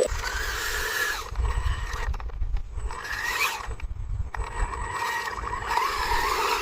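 Small electric motors of a radio-controlled construction machine whining, their pitch rising and falling, over a low rumble.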